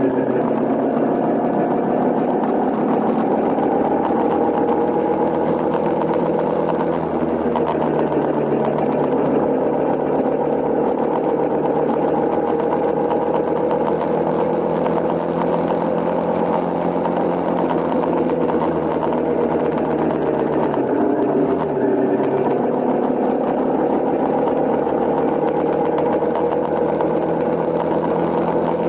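Honda CRF250L's single-cylinder four-stroke engine running while the motorcycle is ridden, its pitch rising and falling gently with speed, with a short dip about two-thirds of the way through.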